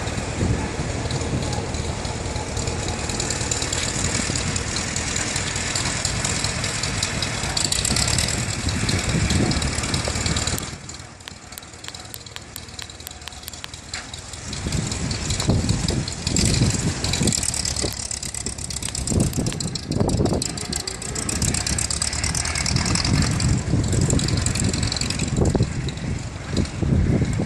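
Farmall C tractor's four-cylinder engine running. It drops much quieter about eleven seconds in for some four seconds, then comes back with uneven low pulses.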